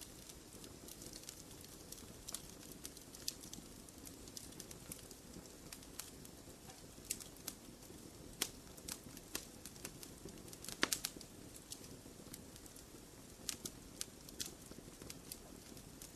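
Wood fire crackling in a fireplace: irregular sharp pops and snaps, with a quick cluster of them about eleven seconds in, over a soft steady low rush of the flames.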